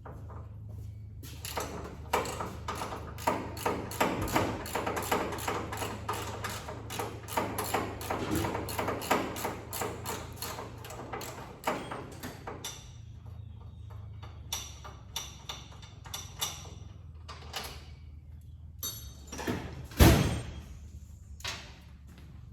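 Hand tools working on car bolts: rapid, even metallic clicking for about ten seconds, like a ratchet being cranked. Then a few scattered clinks, and one loud clank near the end.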